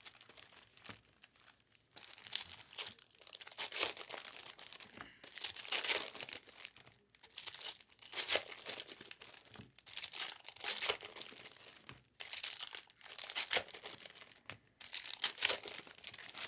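Trading-card pack wrappers crinkling and tearing as packs are opened, in a run of short crackly bursts every second or two.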